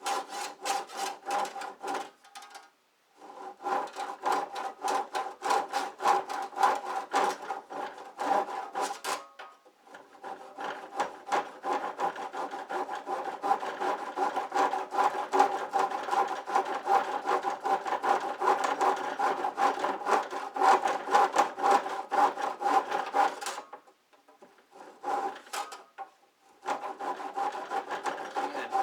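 Handsaw cutting through the end of a garage door in quick back-and-forth strokes, with a steady ring from the blade or panel. The strokes stop briefly twice and then for a few seconds near the end before starting again.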